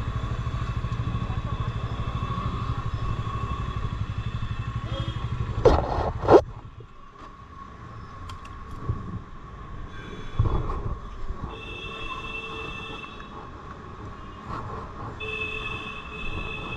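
Motorcycle engine running at low revs, with two short loud blips about six seconds in, after which the engine stops and only quieter street background remains.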